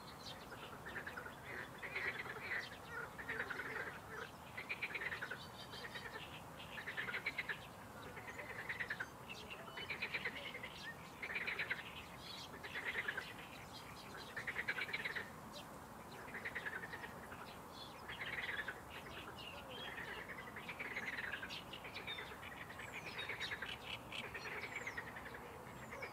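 A bird calling over and over, a short harsh call about every second and a half, with a few faint high chirps from other small birds near the end.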